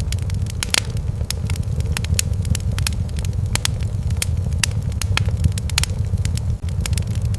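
Wood fire in a fireplace crackling, with irregular sharp pops several times a second over a steady low rumble of the flames.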